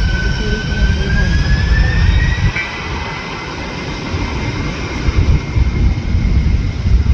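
Boeing 747-400 jet engines whining loudly over a heavy low rumble. The whine rises in pitch a second or two in and then holds steady, and the rumble eases about two and a half seconds in.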